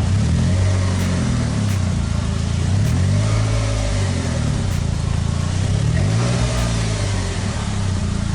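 Polaris Slingshot's engine running under way as it is manoeuvred, its pitch rising and falling several times with the throttle.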